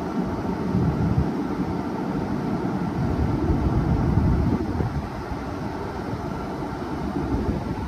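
Trenitalia Rock double-deck electric train rolling slowly past close by: a steady low rumble of wheels on the rails, with faint steady tones above it.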